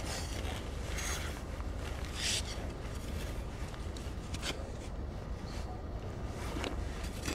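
A few short scraping and rubbing sounds over a steady low rumble.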